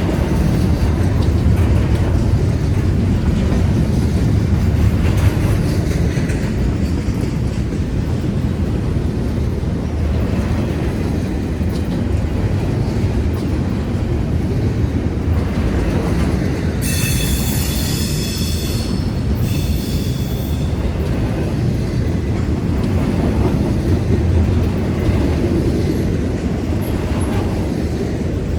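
Westbound train rolling past with a steady low rumble of wheels on rail. About two-thirds of the way through comes a high-pitched wheel squeal that breaks off briefly and returns for about a second.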